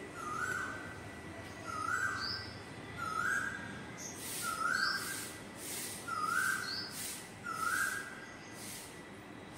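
A bird calling over and over at an even pace, about once every second and a half: each call is a short flat note followed by a quick rising note.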